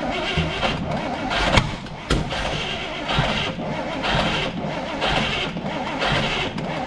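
The 1955 GMC 100's V8 engine running just after starting, with a rhythmic pulse about twice a second. Its ignition timing is out.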